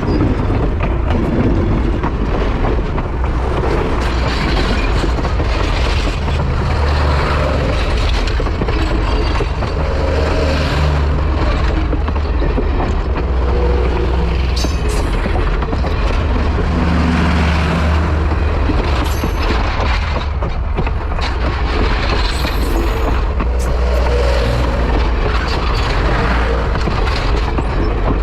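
Steam locomotive hauling a train at speed, a loud continuous rumble and roar.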